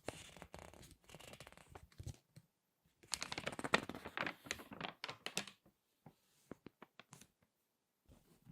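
Crinkly magazine pages being turned and squeezed by hand, giving a paper crinkle. Softer rustling at first, a louder, dense burst of crackling from about three to five and a half seconds, then a few short, sharp crinkles.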